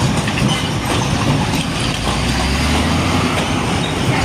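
Heavy trucks on a busy road passing close by: loud diesel engine rumble and tyre noise, with a deep drone swelling about two seconds in as a truck goes past.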